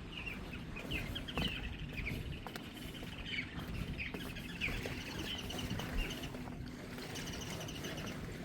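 Birds chirping in many short, quick calls, with footsteps knocking on the pier's wooden decking and a steady low hum underneath.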